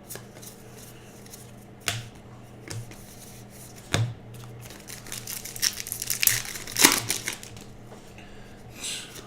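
Baseball card pack wrappers crinkling and tearing as packs are opened, with a few sharp snaps and a busier stretch of rustling about two-thirds of the way through.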